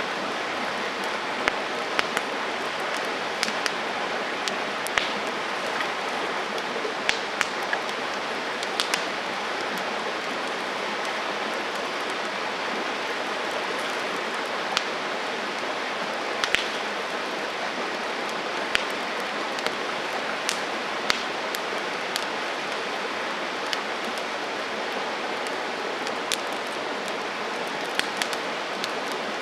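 Campfire burning with a steady hiss and crackle, broken by sharp irregular pops every second or two.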